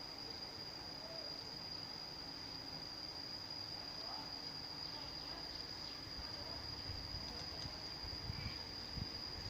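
An insect trills steadily at one high pitch, cricket-like, over a faint even rushing. Some low bumps come in near the end.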